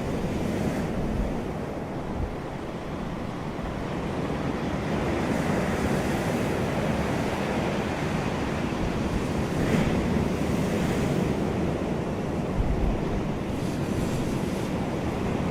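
Ocean surf breaking and washing onto a beach, with wind buffeting the microphone in low rumbles.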